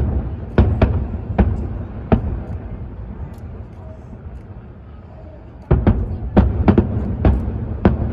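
Aerial fireworks going off: sharp bangs, four or five spread over the first couple of seconds, then a quick run of about eight from around six seconds in, over a low rumble.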